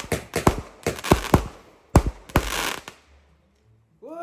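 Fireworks going off: a rapid string of sharp bangs and crackles, several a second, that stops about three seconds in.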